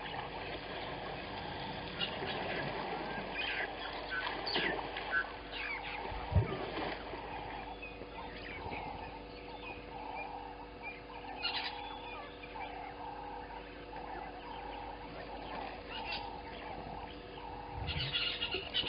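Wild birds calling and chirping, several kinds at once, with one sharp low thump about six seconds in.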